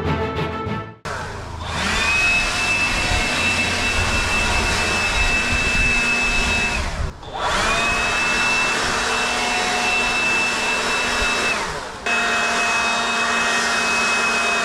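Electric leaf blower running at full speed with a steady high whine. It spins up near the start, is let off briefly and spun back up about seven seconds in.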